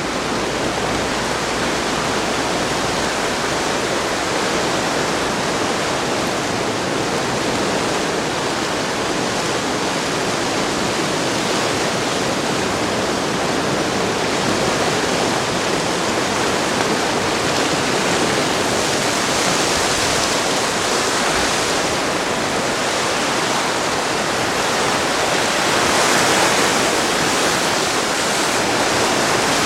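The Driva river in heavy flood, running at about 1000 cubic metres per second under the bridge, gives a steady, loud rush of water that swells slightly near the end.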